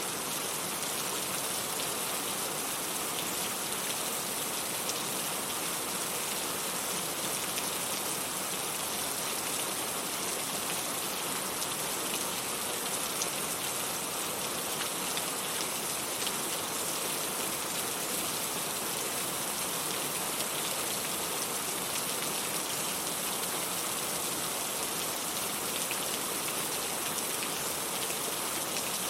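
Steady rain falling, an even hiss with fine scattered drop patter that doesn't change.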